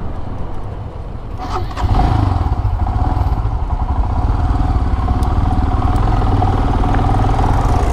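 Royal Enfield Himalayan's single-cylinder engine running as the motorcycle is ridden, getting louder about two seconds in and then holding steady.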